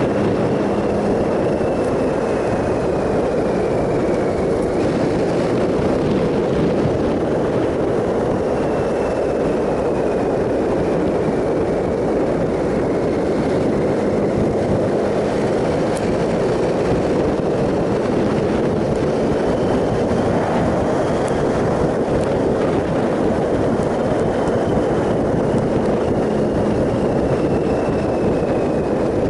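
Triumph Sprint ST 1050 motorcycle riding at a steady speed: a constant rush of wind and road noise with the engine running underneath. A faint high whine drifts slowly down in pitch several times.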